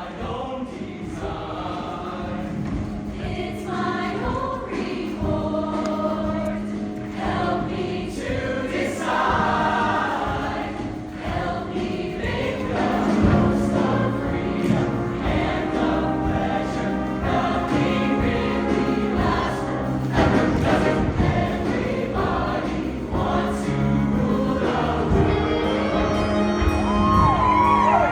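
Show choir singing in harmony over a live show band with drums, the music building louder through the passage.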